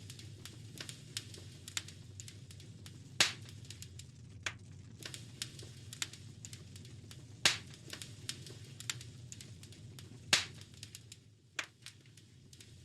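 Wood fire crackling in a fireplace: frequent small snaps and three much louder pops, spaced a few seconds apart, over a steady low rumble.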